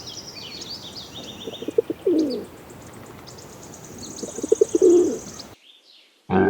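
A pigeon cooing: two phrases, each a few quick soft notes followed by a longer falling coo, with small birds chirping high in the background. The sound cuts off abruptly about a second before the end.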